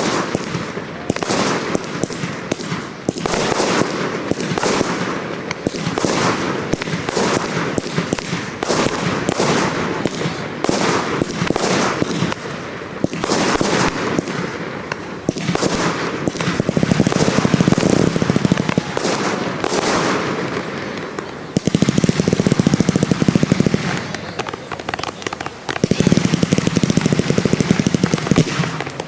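Professional fireworks display: shell bursts and bangs going off in rapid succession, merging into an unbroken barrage about three-quarters of the way in and again near the end.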